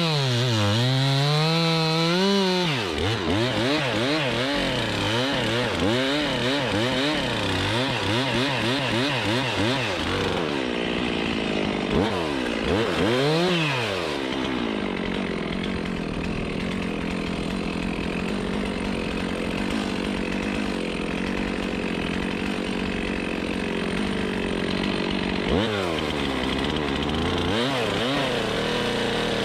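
Chainsaw cutting wood, its pitch dipping and rising again and again as it loads up and frees in the cut, holding steadier through the middle before the swings return near the end.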